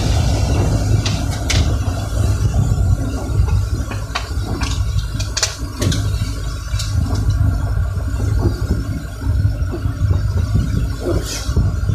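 Steady low rumble of a running vehicle, with scattered sharp ticks throughout.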